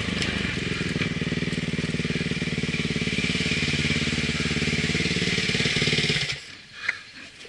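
Motocross dirt bike engine running steadily at an even pitch, then cutting off abruptly about six seconds in.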